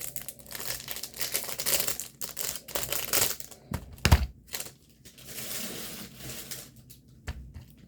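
Plastic packaging crinkling and rustling as it is handled and opened, with a single thump about four seconds in.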